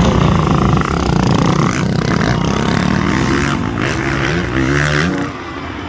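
Motorcycle engine revving up hard, its pitch climbing in steps as the rider accelerates toward the jump ramp. The throttle drops off suddenly about five seconds in.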